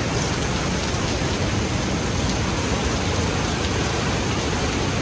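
A river in flood rushing steadily: a dense, even wash of water noise that does not change.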